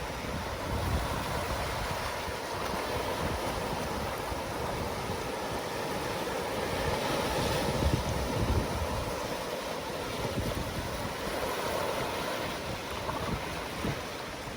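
Ocean surf washing continuously, with a wave building to a peak about halfway through. Wind gusts rumble on the microphone.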